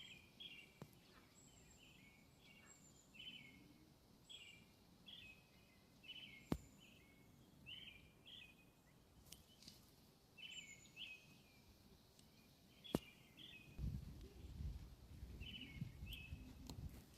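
Small birds chirping faintly and repeatedly in short notes, with two sharp clicks and a low rumble near the end.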